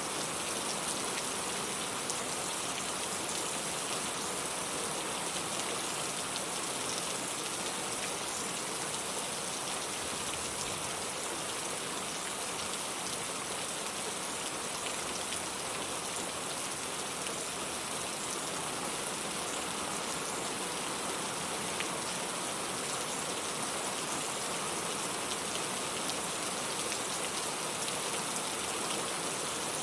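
Steady rain falling: an even hiss, brightest at the high end, flecked with faint drop ticks.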